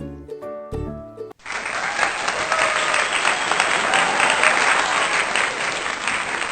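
Light plucked-string background music, like a ukulele, cut off about a second and a half in by a crowd applauding, many hands clapping steadily.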